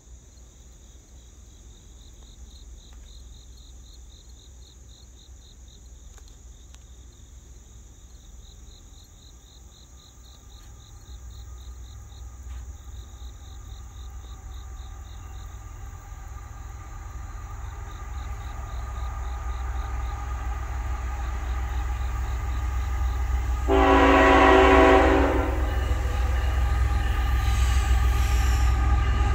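Norfolk Southern diesel freight locomotive approaching, its engine rumble growing steadily louder, with one short horn blast late on.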